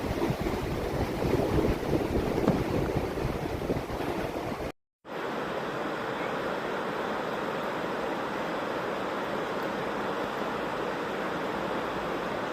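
Rushing river water, the Swift River, with gusty wind buffeting the microphone for the first few seconds. After a brief cut to silence just under five seconds in, the water's rush continues steady and even.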